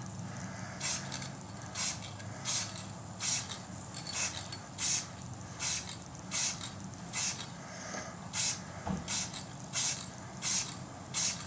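Aerosol paint can (Rust-Oleum 2X Ultra Cover) spraying in short, even hissing bursts, about one every three-quarters of a second, as a light mist coat goes on in quick passes.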